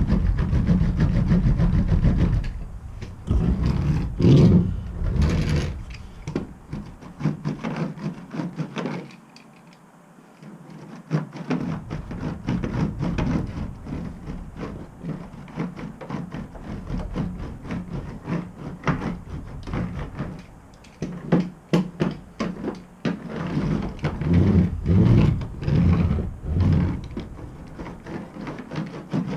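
Hand roller pressed and rolled over self-adhesive sound-deadening mat on the van's sheet-metal panels: a low rumble at first, then irregular knocks and clicks as the roller works over the panel.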